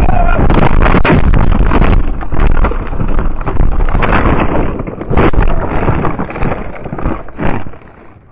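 Car crash recorded by an in-car camera: loud, distorted crashing and rumbling noise with several sharp knocks. It dies away near the end.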